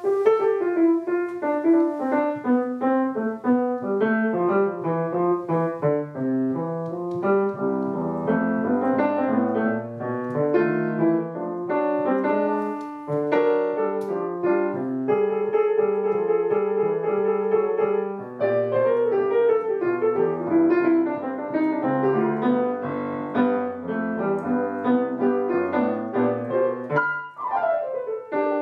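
Solo piano music: a busy melody of quick notes over a moving bass line, played without pause.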